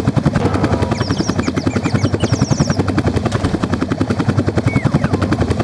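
Helicopter rotor chopping fast and steady, a helicopter sound effect, with a few faint high chirps about a second and two seconds in.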